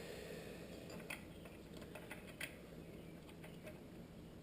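A few faint clicks and light taps of small headlight parts being handled and fitted, the sharpest about a second in and again at about two and a half seconds.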